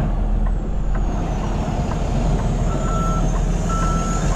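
Semi truck's diesel engine running at low speed while reversing, with its backup alarm starting to beep about two-thirds of the way in, roughly one beep a second.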